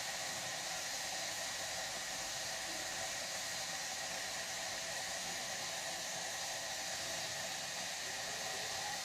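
Steady hiss with no other events, even and unchanging throughout.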